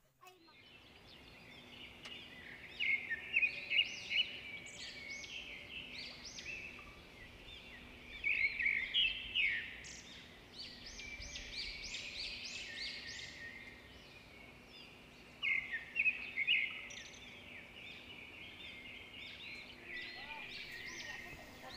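Wild birds singing and chirping in bursts of quick, high, repeated notes, with short pauses between the bursts.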